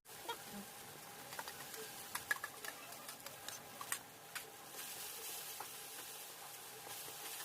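A spoon or spatula stirring and tapping in a pan of cooking masala, with scattered small clicks. A faint, steady sizzle comes in about two-thirds of the way through.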